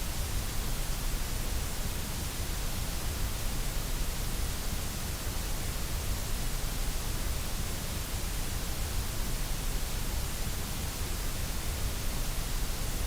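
Steady white noise played for sleep and relaxation: an even, unchanging hiss with no rhythm, tones or events.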